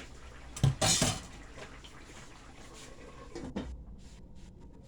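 Kitchen utensils clattering against dishes: a loud cluster of knocks about a second in and a smaller one about three and a half seconds in.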